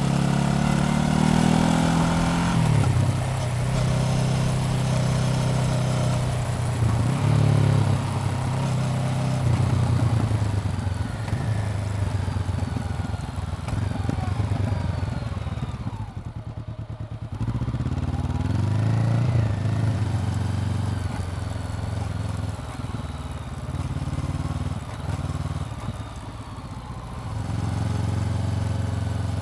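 Honda CBR400R's parallel-twin engine pulling through the gears, its pitch repeatedly climbing and dropping at each shift. About halfway through the throttle closes briefly and the engine falls to a lower, quieter note before pulling again.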